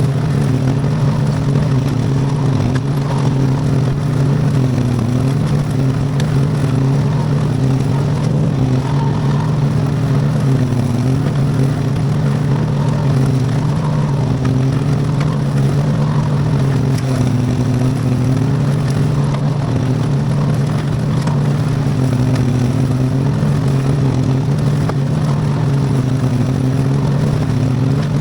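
V-twin Briggs & Stratton engine of a homebuilt Iseki garden tractor running steadily at working speed while mowing with a bush hog, its pitch wavering slightly under the changing load.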